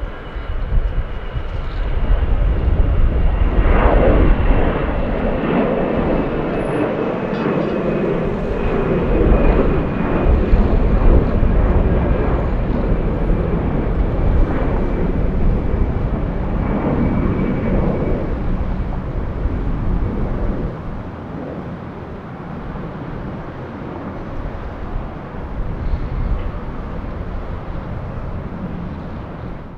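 Jet airliner passing with a broad engine rush and a thin whine that slowly falls in pitch, easing off in the second half. Wind rumbles on the microphone.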